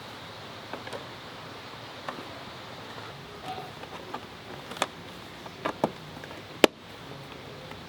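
Scattered sharp clicks and knocks of hand work on a scooter, metal and plastic parts and tools handled during reassembly, with a sharper, louder knock about two-thirds of the way through.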